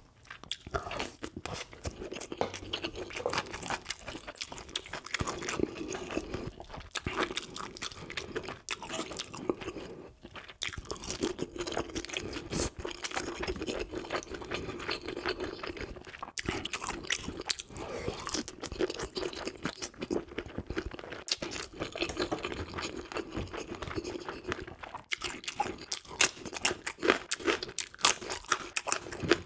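Close-miked chewing of crisp grilled gulbi (salted dried yellow croaker), a dense run of sharp crunches with wet mouth sounds, the crunches loudest near the end.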